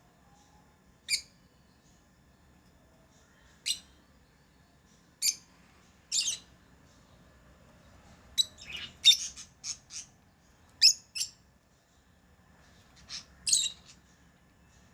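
Pet lovebirds giving short, sharp, high-pitched chirps: single calls every second or two at first, a quick run of calls about halfway through, and a few more near the end.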